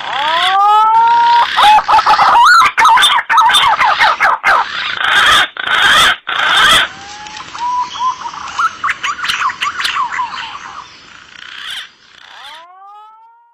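Green pigeons (punai) calling in a spliced lure recording: whistled notes that glide up and level off, then a busy run of wavering, warbling whistles, with abrupt cuts between segments and another rising whistle near the end.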